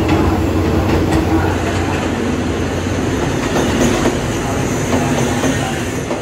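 Diesel locomotive No. 4221 passing close by with a steady engine hum that fades after about two seconds. Its passenger coaches follow with wheels clattering over the rails.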